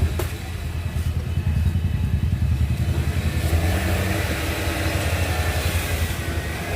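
Royal Enfield Bullet's single-cylinder engine running with a fast, even low thump, the revs rising a little a few seconds in.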